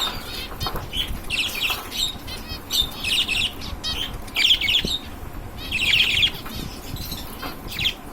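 Caged finches chirping together in short, high, trilled bursts every second or so.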